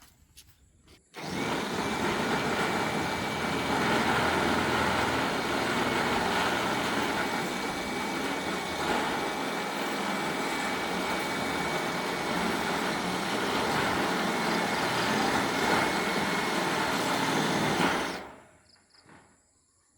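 A motor-driven machine runs steadily with a faint constant whine, starting abruptly about a second in and winding down near the end.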